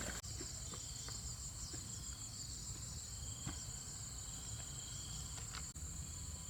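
Insects, crickets or similar, chirring in a steady high-pitched chorus that never stops, with a few faint clicks here and there.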